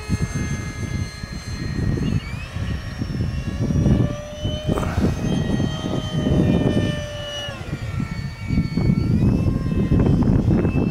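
Whine of a 64 mm electric ducted fan on a Freewing F-35 foam RC jet in flight. The pitch steps up about two seconds in and drops back twice near the end as the throttle changes. Heavy wind buffeting rumbles on the microphone throughout.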